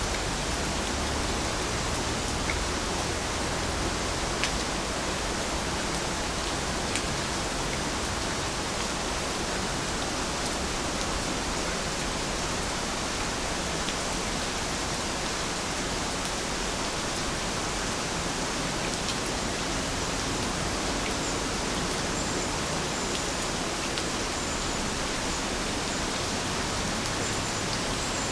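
Heavy rain falling steadily, a dense, even hiss with a few sharper drop ticks scattered through it.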